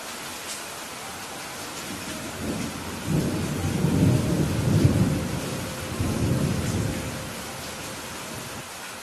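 Steady rain with a deep rumble of thunder that builds about two seconds in, is loudest around the middle, and dies away about two seconds before the end.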